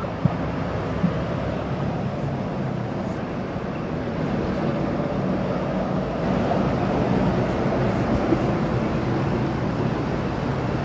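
Steady low rumble of vehicle engines and road traffic, with two faint clicks in the first second or so.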